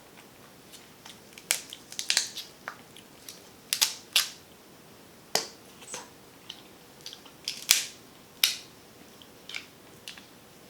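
Snow crab shell being cracked and snapped apart by hand, a series of sharp cracks and crunches at irregular intervals.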